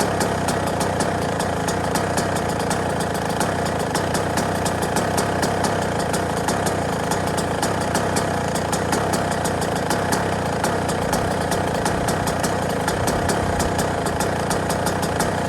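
Yamaha YZ125 two-stroke motocross engine idling steadily, with a fast, even crackle of firing pulses.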